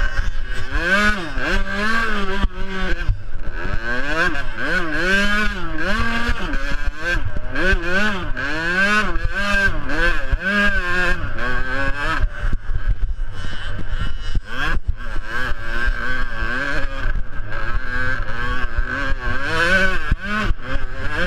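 Small two-stroke youth motocross bike engines racing, the pitch rising and falling about once a second as the throttle is opened and shut around the track, then running steadier and higher for the last several seconds.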